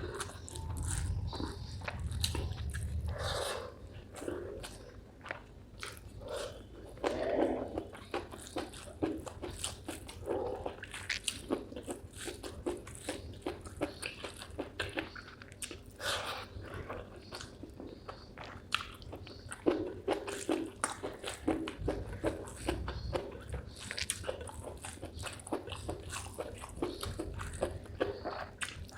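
Close-up chewing and biting of spicy chicken gizzard with rice: irregular wet, crunchy clicks and smacks of the mouth working on the chewy gizzard.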